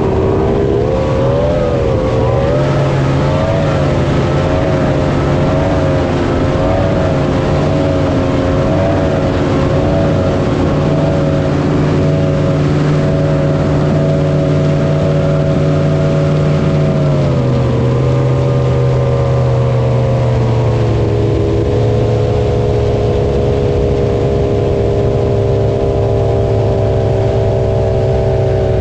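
Jet boat engine running steadily at speed, its pitch wavering slightly, then dropping in two steps about two-thirds of the way through as the throttle eases back.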